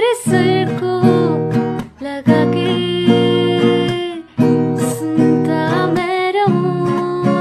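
A solo voice singing a slow melody over strummed acoustic guitar chords, the chords breaking off briefly between phrases twice.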